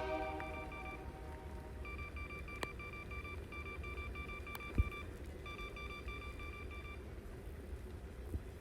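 An electronic chime beeping rapidly in two runs of about three and one and a half seconds, over a steady low rumble. A sharp click about two and a half seconds in and a low thump near the middle.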